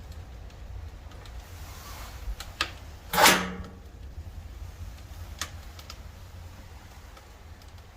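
Wood fire crackling now and then in a fireplace stove's firebox over a low steady rumble. About three seconds in comes one loud metallic scrape and clunk, the stove's air damper being pushed shut to turn the fire down to smouldering.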